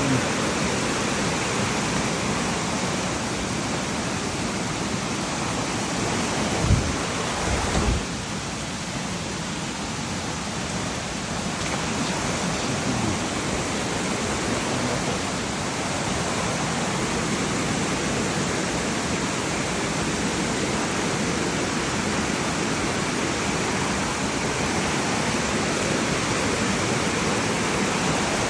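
Steady rushing noise of a heavy, fast-flowing river with rain falling. Two brief low bumps about seven and eight seconds in.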